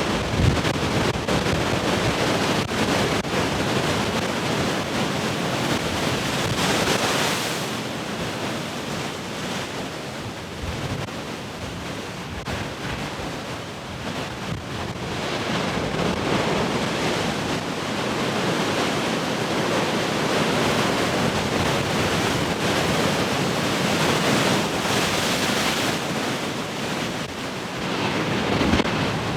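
Heavy ocean waves breaking and washing in continuously, surging louder about seven seconds in, easing for a few seconds, then building again through the second half.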